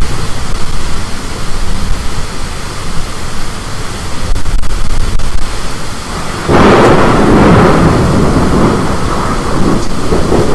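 Thunder: a sudden loud clap about two-thirds of the way in that rolls on and slowly fades, over a steady deep rumble of storm wind.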